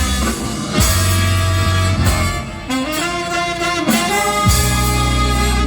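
A band's horn section, saxophone to the fore, playing an instrumental break in a blues number over a bass line.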